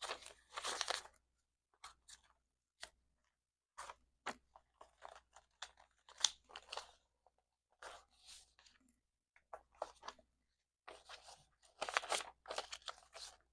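Paper banknotes being handled and counted: irregular crisp rustles, flicks and crinkles of bills and paper envelopes, coming in clusters.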